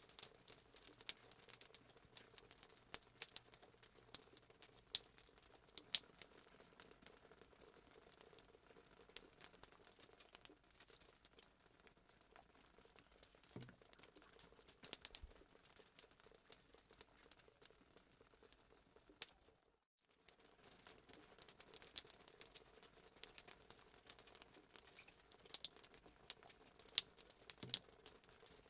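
Faint fireplace sound effect: a wood fire crackling with frequent small irregular pops, cutting out for a split second about twenty seconds in.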